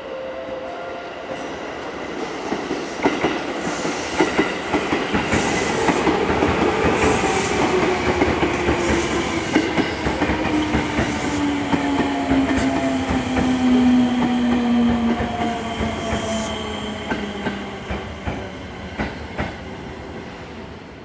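Seibu 10000 series New Red Arrow limited express train pulling into the station at low speed, its wheels clattering over points and rail joints. A whine falls steadily in pitch as it brakes. The sound grows louder as the train passes close by, then eases off near the end.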